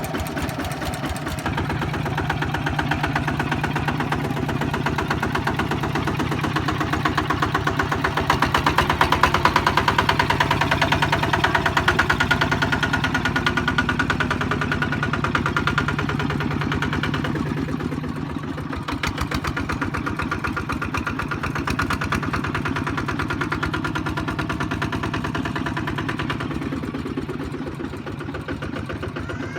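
Kubota ZT155 walking tractor's single-cylinder diesel engine running steadily, with a fast, even firing beat. It gets louder about eight seconds in and eases back around eighteen seconds.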